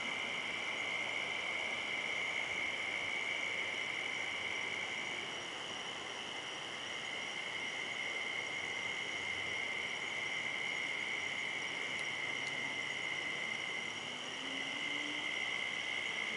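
Steady, high-pitched chorus of night insects, a continuous shrill trilling that drops back briefly about five seconds in and again near the end. No thunder is heard.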